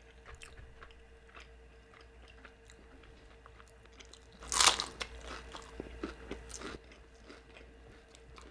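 A bite into a deep-fried carne asada empanada: one loud crunch of the fried crust about four and a half seconds in, followed by a couple of seconds of crunchy chewing.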